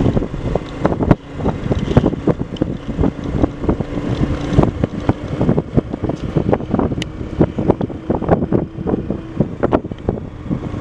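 Wind buffeting the microphone while on the move, with a steady low hum underneath and many irregular knocks and jolts.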